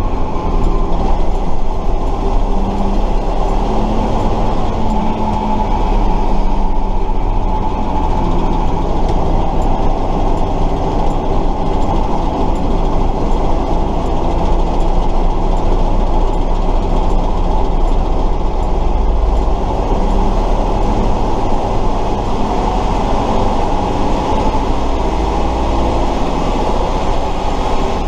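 Air-cooled V8 diesel engine and drivetrain of a 1968 Tatra 138 truck running under way, heard from inside the cab, a loud steady drone with small changes in engine speed.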